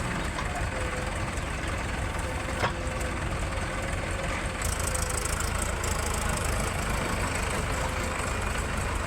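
Heavy diesel engine running steadily, with one sharp knock about two and a half seconds in.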